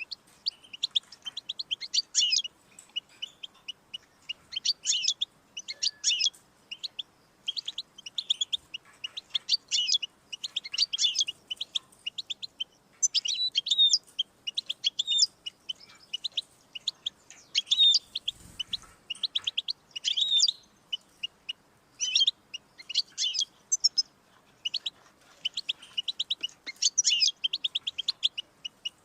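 European goldfinch singing: fast twittering phrases of chirps and trills, each lasting a second or two, with short pauses between them.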